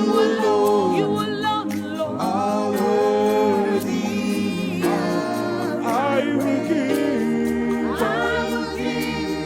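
Worship music: voices singing held, gliding notes without words over sustained keyboard chords.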